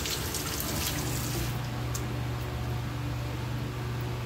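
Battered eggs deep-frying in hot oil, a steady sizzling hiss, with a steady low hum underneath.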